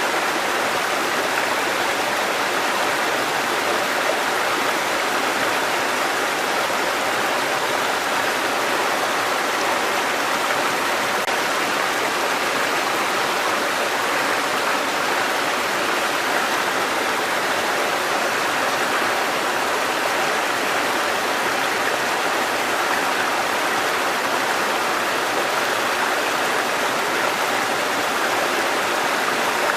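Mountain stream water cascading over rocks, a steady rushing splash.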